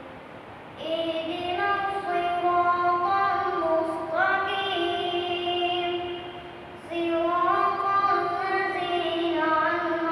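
A boy chanting Quran recitation aloud in a melodic, drawn-out style: long held notes that glide in pitch, in two long phrases with a short breath pause just before the middle of the second half.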